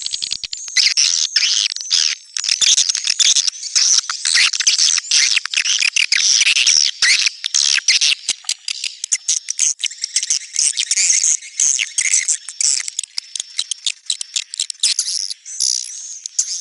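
Swiftlets twittering in a dense, continuous chorus of rapid high chirps, the kind of 'neutral' swiftlet call recording played to draw birds to a swiftlet house. It opens with a fast run of even clicks.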